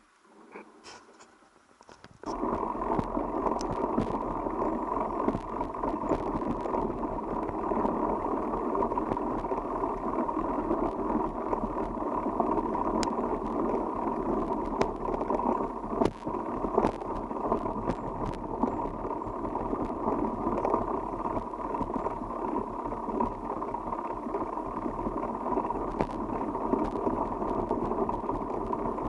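Steady rushing noise of a bicycle ride, wind on the microphone and tyres rolling, starting abruptly about two seconds in, with scattered light clicks.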